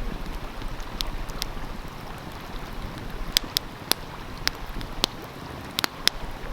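Wood fire crackling, with sharp pops scattered through it and several bunched past the middle, over the steady rush of a flowing stream.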